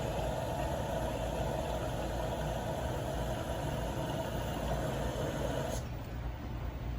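Front-loading washing machine running at the start of its Clean Washer cycle: a steady low hum with a rushing noise that drops away about six seconds in.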